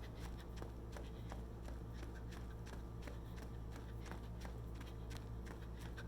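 Footsteps on a path, a quick irregular series of soft crunching steps, over a steady low hum.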